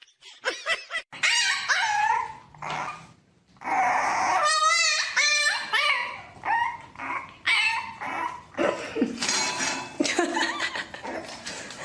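A dog barking, yipping and whining in a run of short, wavering calls with brief gaps between them.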